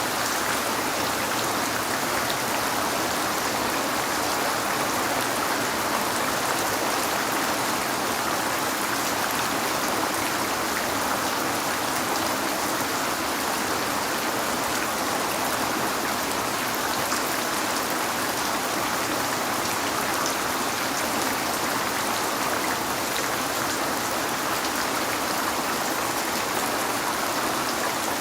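Steady rain falling on a window, an even hiss with faint scattered drop ticks.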